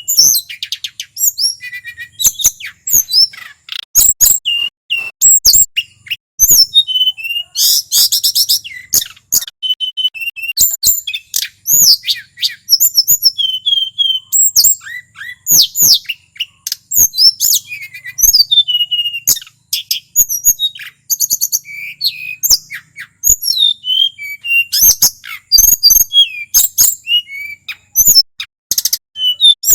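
Male tledekan gunung singing at full song: a loud, continuous stream of rapid, varied high chirps, whistled sweeps and sharp clicking notes, with a fast trill about eight seconds in.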